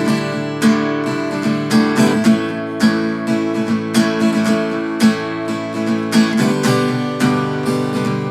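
Background music: strummed acoustic guitar playing a steady chord pattern, with a strum about every half second and a chord change near the end.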